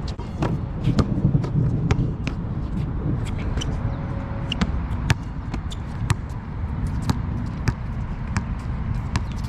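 Basketball bouncing on a wet court in the rain: irregular sharp knocks over a steady low rumble.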